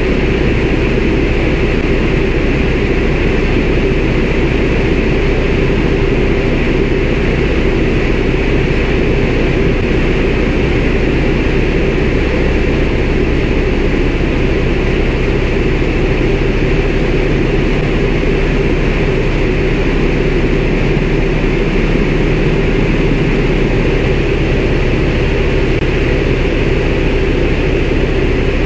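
CAC Winjeel's Pratt & Whitney R-985 radial engine and propeller running steadily in flight, heard from inside the cockpit as a loud, even drone. The low engine tone shifts slightly about 24 seconds in.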